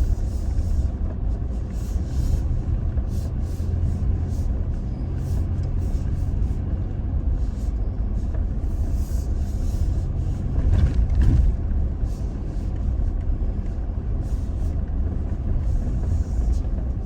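Toyota Tacoma pickup driving on a rough dirt track: a steady low engine and tyre rumble, with scattered knocks and rattles over bumps and a louder jolt about eleven seconds in.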